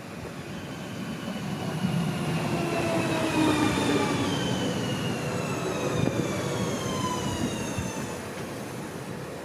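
Train pulling into the station and braking, several whining tones falling steadily in pitch as it slows, over a rumble that swells and then eases.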